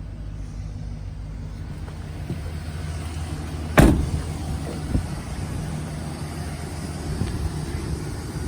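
Chevrolet Express cargo van's 4.8-litre Vortec V8 idling with a steady low hum, with a loud thump a little under 4 seconds in and a smaller knock about a second later.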